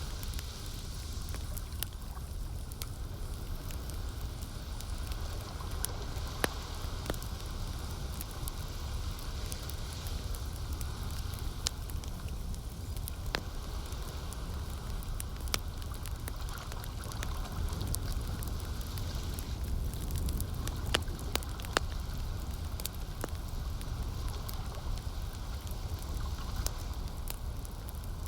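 Campfire crackling, with sharp irregular pops over a steady low rumble and a soft hiss.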